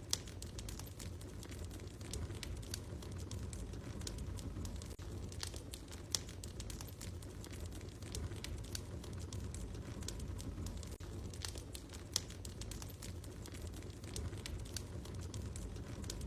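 Wood fire crackling in a fireplace: irregular small pops and snaps, a few louder ones, over a low steady rumble.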